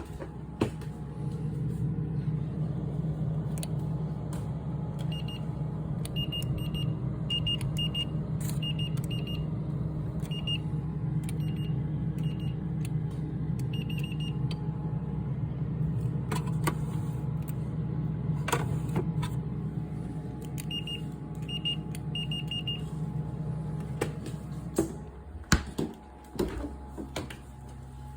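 Samsung RT32 refrigerator's faulty compressor humming steadily, then cutting out with a few clicks near the end. Short high beeps sound in clusters over the hum.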